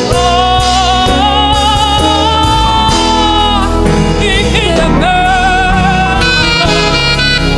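Live gospel worship band playing with keys, bass and drums under a melody line of long held notes with vibrato.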